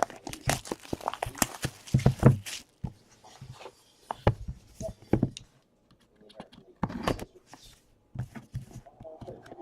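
A trading card box and its packaging being opened and handled: a quick run of crackles and taps in the first few seconds, then scattered taps and rustles.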